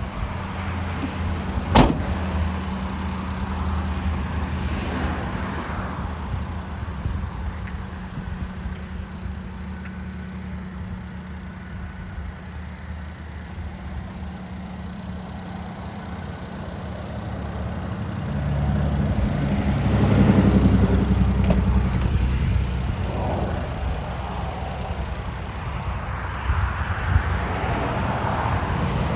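Daihatsu Hijet S210P kei truck's small three-cylinder engine running at idle with the air conditioning on, a steady low hum. A single sharp click comes about two seconds in, and the engine gets louder for a few seconds about two-thirds of the way through before settling again.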